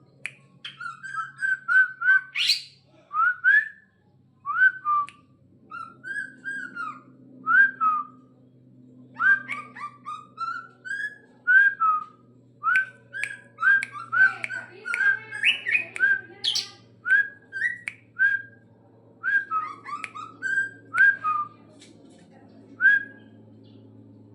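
Bornean greater green leafbird (cucak ijo) singing a long run of short, clear whistled notes that bend in pitch, several a second with brief pauses, mixed with sharp higher chips. A steady low hum runs underneath.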